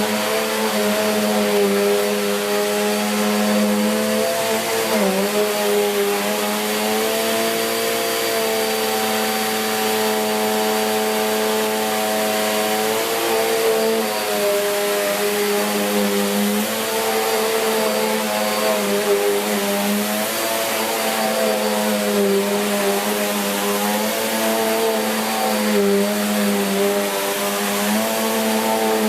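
Bissell Cleanview Plus 76P4-E, a 1900 W bagless upright vacuum cleaner, running steadily on carpet: a motor whine over rushing air, its pitch dipping and rising a little as the load on it changes.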